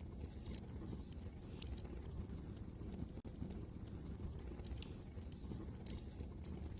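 Wood fire crackling: irregular sharp pops and snaps scattered over a steady low rumble of wind. The sound drops out for an instant about three seconds in.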